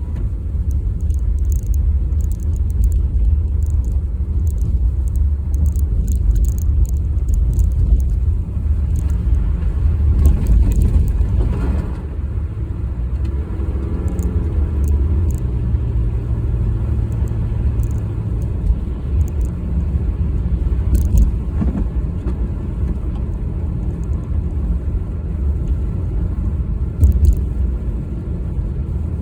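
Car driving on a snowy road: a steady low rumble of engine and tyre noise, with a low hum that holds for a few seconds around the middle.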